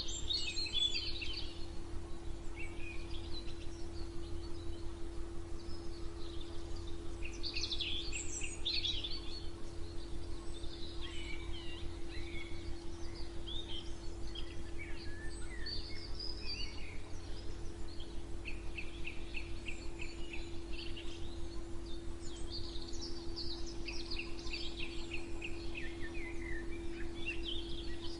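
Several songbirds chirping and singing, with runs of rapidly repeated notes, over a steady low hum.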